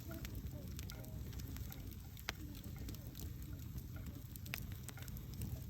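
Campfire burning: a steady low rumble of flames with scattered sharp crackles and pops, the loudest about two seconds in and again past four seconds.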